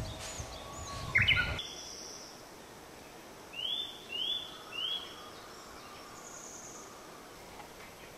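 Songbird calling: a loud sweeping whistle about a second in, then three short rising whistled notes in quick succession, and a faint high note later. A low rumble underlies the first second and a half.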